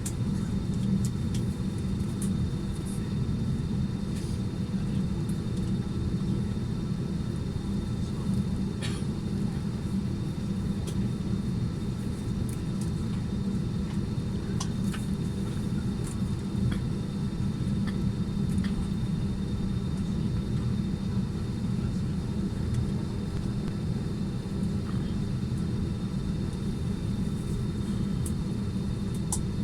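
Steady low rumble inside an airliner cabin: the hum of air conditioning and engine noise, with a few faint small clicks.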